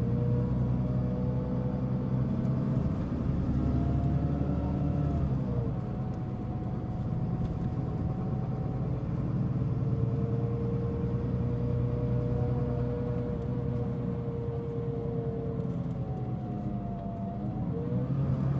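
Mitsubishi Fuso Aerostar city bus's diesel engine running under way, with a strong whine whose pitch holds, falls and rises again with road speed. This is the bus's considerable abnormal noise. The engine rumble is heavier for the first few seconds, then eases off.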